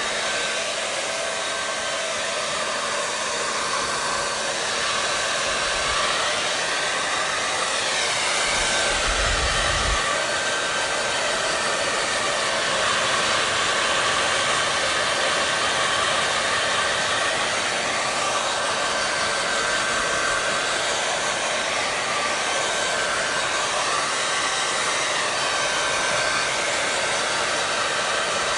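Electric hair dryer running continuously: a steady rush of blown air over a constant motor whine. The tone of the rush shifts slowly now and then, and a brief low rumble comes about nine seconds in.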